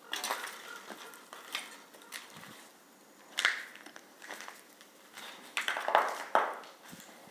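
Footsteps crunching on debris underfoot in a small concrete room, as irregular crunches and scrapes, the loudest cluster about six seconds in.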